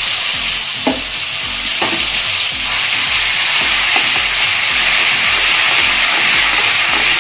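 Thick masala paste sizzling loudly as it fries in hot sesame oil in a steel kadhai. A steel ladle stirring it knocks against the pan a few times, about one, two and four seconds in.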